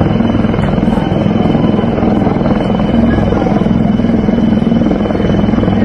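Helicopter flying close by: loud, steady rapid chop of the rotor blades over a constant engine hum.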